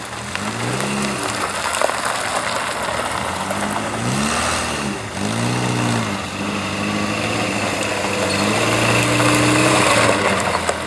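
A classic car's engine running close by, its revs rising and falling briefly three times, then holding steady and getting a little louder.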